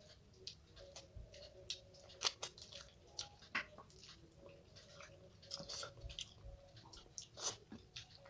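Close-up chewing and lip-smacking of a person eating fish head in mustard curry with rice by hand, with many short sharp clicks scattered irregularly through it.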